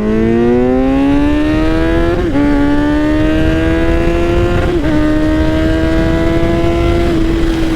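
Kawasaki Z900 inline-four running through a muffler with its baffle gone, pulling hard with the pitch rising. It shifts up twice, about two and four and a half seconds in, then holds a steady speed. Heavy wind noise on the microphone.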